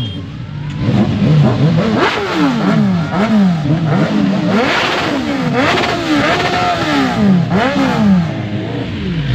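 Superbike engines revved in repeated throttle blips, the pitch rising and falling many times in quick succession.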